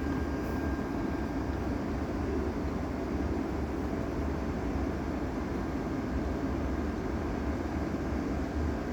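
Steady hum and low rumble of a passenger train standing at the platform, its locomotive's equipment running while it waits to depart.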